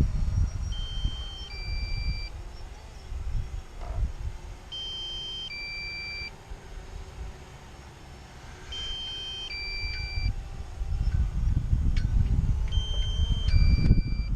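A drone remote controller sounds a repeating two-part electronic warning beep, a higher tone then a lower one, about every four seconds: the low-battery alert. Gusty wind rumbles on the microphone throughout, loudest at the start and again in the last few seconds.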